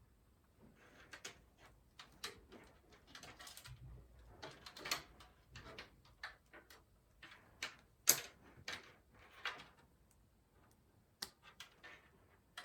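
Hands working on a PC case and its parts: irregular light clicks, taps and short scrapes, with the sharpest click about eight seconds in.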